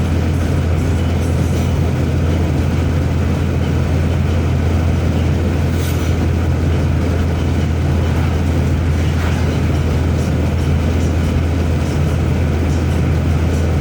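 Steady low drone and road noise of a car driving along a highway, heard from inside the cabin, with one brief tick about six seconds in.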